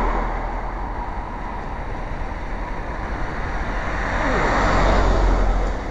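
Motor vehicles passing on a road. The noise swells near the start, eases, then builds again about four seconds in as another vehicle goes by with a falling engine note.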